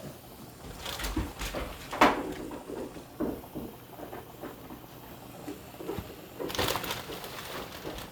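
A dog whining softly over light kitchen handling noises, with a sharp knock about two seconds in and a short rustle near the end.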